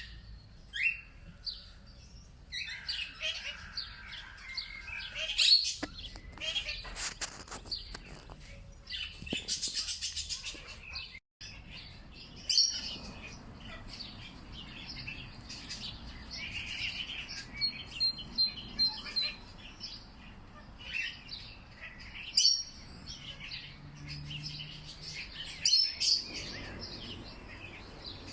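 Several songbirds singing and chirping, with short high calls and whistles overlapping one another and a rapid trill about ten seconds in.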